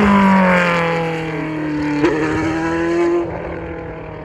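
Formula One car engine at high revs, its note falling steadily in pitch as the car passes and draws away. There is a brief blip about two seconds in, and the engine drops away about three seconds in.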